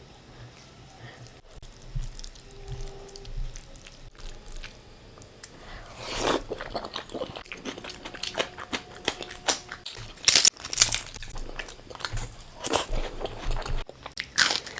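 Close-miked biting and chewing of crisp fried food, with sharp crunches that come thicker and louder from about six seconds in.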